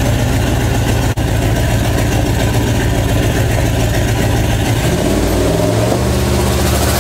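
Ford 302 small-block V8 running steadily, its exhaust driven through a homemade turbo hot side into a large semi-truck turbocharger. There is a momentary break about a second in, and near the end the engine's note shifts as the revs change.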